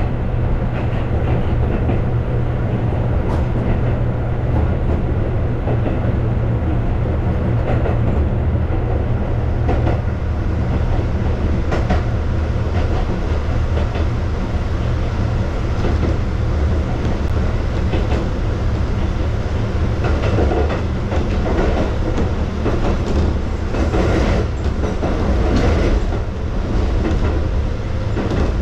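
A Kōnan Railway electric train running along the line, heard from inside at the front: a steady low rumble, with wheels clicking over rail joints, the clicks coming more often in the later part.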